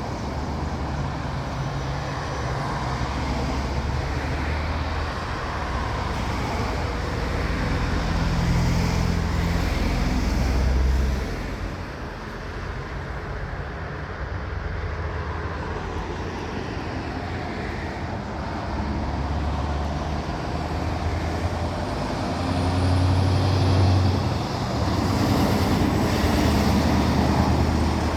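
Heavy trucks' diesel engines running in steady road traffic. The low engine hum swells and cuts off sharply about a third of the way in, and swells again near the end.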